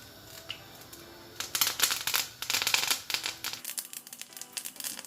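Fresh curry leaves dropped into hot oil with whole spices, spluttering and crackling sharply from about a second and a half in, then settling into a lighter crackle.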